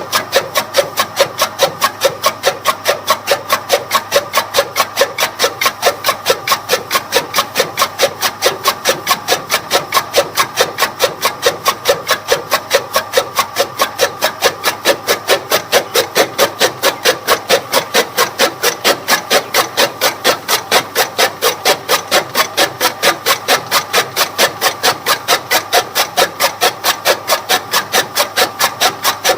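Toka chaff-cutter machine running, its rotating blades chopping fodder in a steady, even rhythm of about three to four cuts a second.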